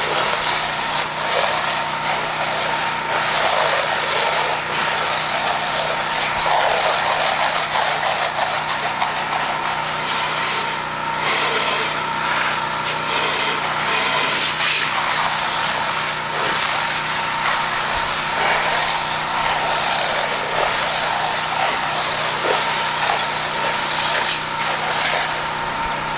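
Pressure washer running steadily: an engine's even drone under a continuous hiss of high-pressure water spray.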